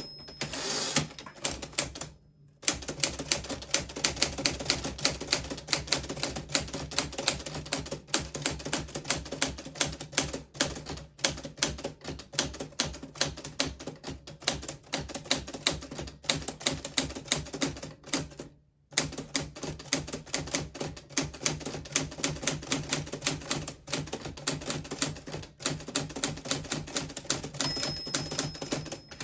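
1940s Smith Corona Silent manual typewriter being typed on, a fast, steady run of key strikes with two brief pauses. A short high ring comes near the end.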